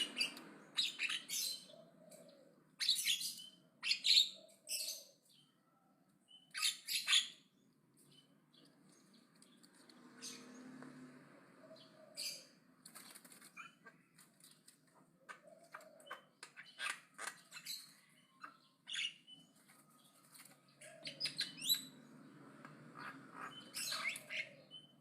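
Javan myna (jalak kebo) chattering loudly: quick runs of short, sharp, high calls and whistles, easing off for a few seconds about a third of the way in, then coming back in denser runs.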